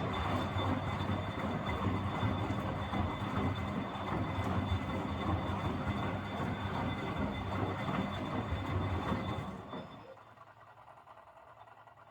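Miele W761 front-loading washing machine turning its drum during the wash: a steady motor hum with the rumble and churn of the tumbling laundry, stopping about ten seconds in, leaving only a faint hum.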